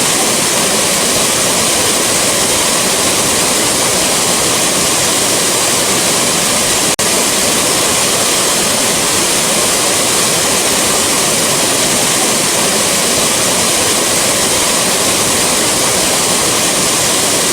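Rushing waterfall: a steady, even rush of falling water. There is one momentary dropout about seven seconds in, where the recording is looped.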